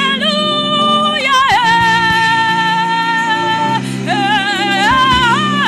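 A solo voice singing gospel in long held high notes with vibrato, sliding between pitches, over sustained accompanying chords. The voice breaks off briefly just before the four-second mark, then climbs into a new phrase.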